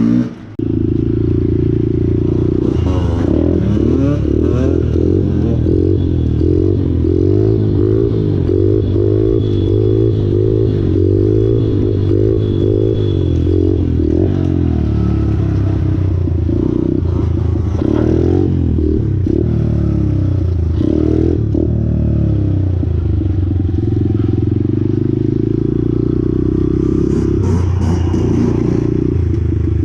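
Small pit bike engine running as the bike is ridden, its revs wavering up and down.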